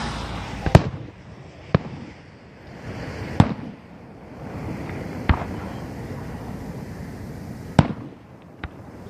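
Display fireworks going off: about six sharp shell-burst bangs at irregular intervals, the loudest near the start and about eight seconds in.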